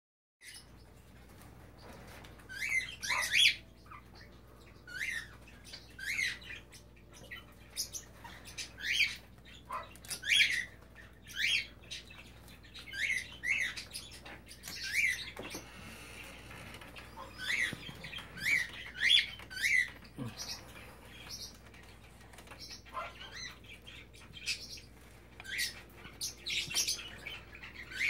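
Caged pet birds chirping: short, sharp calls, one every second or two.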